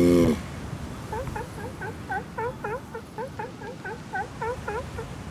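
Animal calls: a rapid series of short yelps that dip and rise in pitch, about four a second, after the tail of a longer steady call at the very start.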